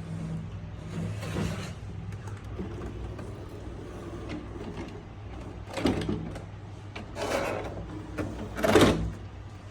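Small electric motors and gearing of a Huina 1562 remote-control toy fire truck whirring, with a steady hum and several short, louder bursts of whirring, the loudest near the end.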